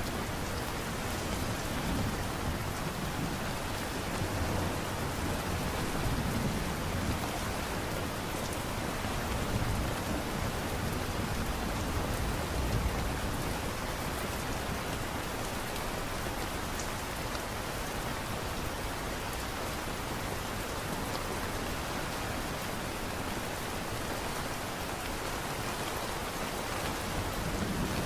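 Steady light rain falling, an even hiss with low rumbling swells a few times in the first half.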